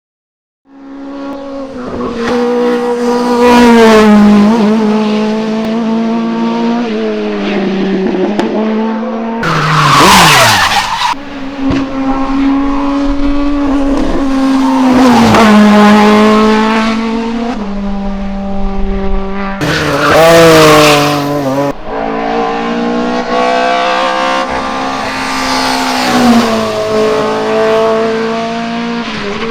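Hillclimb racing cars at full throttle, engines revving up and down through the gears, in a string of abrupt changes from one car to the next. Three very loud rasping peaks come about ten, fifteen and twenty seconds in.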